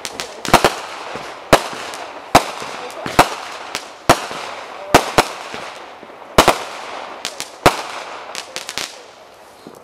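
Consumer fireworks going off: a string of sharp bangs at irregular spacing, about one a second, with a smaller, quieter cluster near the end.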